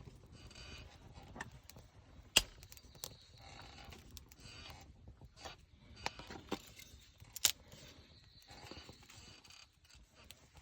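A few separate sharp clicks and knocks from camp gear being handled, the loudest about two and a half and seven and a half seconds in.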